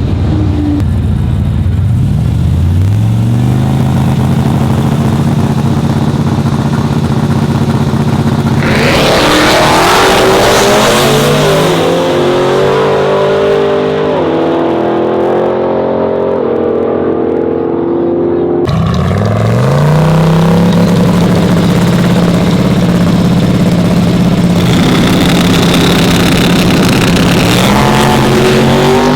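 Drag-racing trucks' engines revving up and holding at high revs, then a hard run with the engine note stepping up repeatedly through gear changes. After a sudden break, an engine revs up and holds again, louder toward the end.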